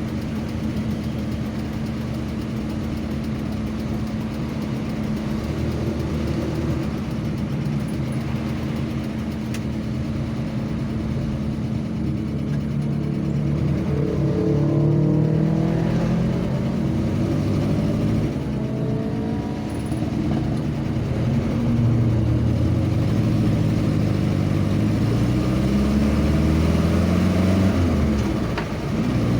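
A road vehicle's engine running steadily, then, from a little under halfway in, rising and falling in pitch several times as it accelerates through the gears.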